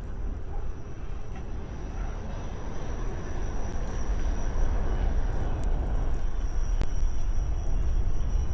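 Blizzard wind buffeting the microphone: a steady deep rumble with a hiss of blowing snow, growing louder after a few seconds.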